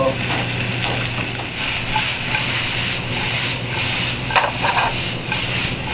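Chicken strips and julienned bell peppers sizzling and frying in a hot oiled frying pan over a gas flame, while the pan is tossed and stirred.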